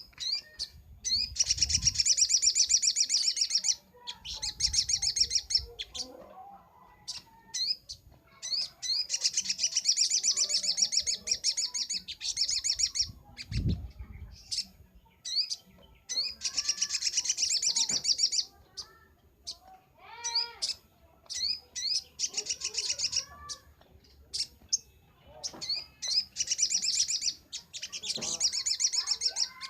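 A sogon (little spiderhunter) singing hard in long, rapid, high-pitched trills of a couple of seconds each, broken up by short sharp chip notes. There are a few low thuds under the song, the strongest about 14 seconds in.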